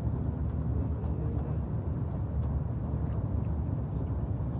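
Steady low outdoor rumble, even and unbroken, with a few faint high chirps over it.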